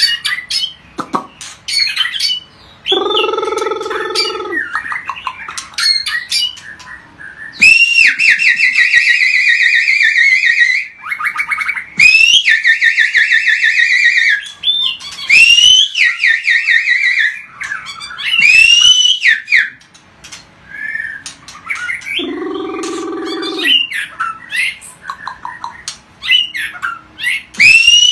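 White-rumped shama (murai batu) singing loud, rapid trilled phrases broken by sharply rising whistled notes, in several bursts of a few seconds each. Twice, a lower, harsh call lasting over a second cuts in.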